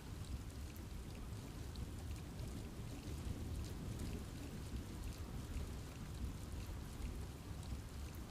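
Steady rain falling in a forest, a dense patter of drops on leaves over a low, even rush.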